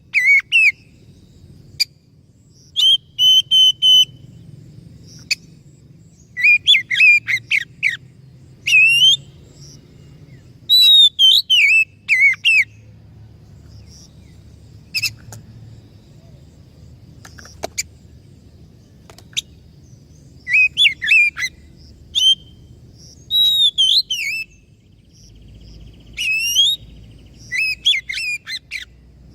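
Oriental magpie-robin (kacer) singing: loud, clear whistled phrases with quick rising and falling slides, delivered in short bursts separated by pauses of a second or two, with a few single sharp notes in between.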